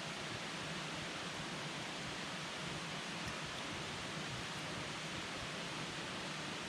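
Wood campfire burning: a steady hiss, with a few faint crackles about halfway through.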